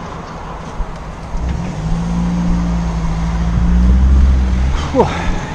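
A motor vehicle's engine running close by, coming up about a second and a half in, growing louder to a peak near four seconds, then dropping away.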